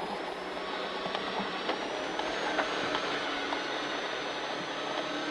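Rally car driving at speed on a snowy stage, heard from inside the cabin: steady engine and tyre noise with scattered ticks and knocks from the road surface, and a thin high whine that rises slightly about two seconds in.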